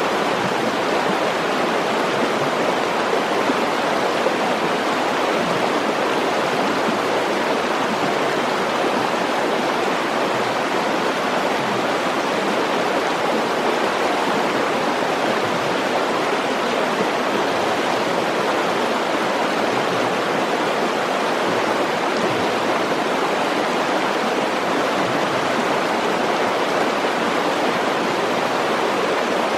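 Mountain stream water rushing, a steady even noise with no breaks.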